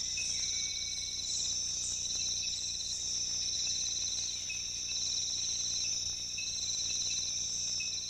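Rainforest insect chorus: a steady, high-pitched insect drone, with a pulsing trill that repeats in short bursts about once a second.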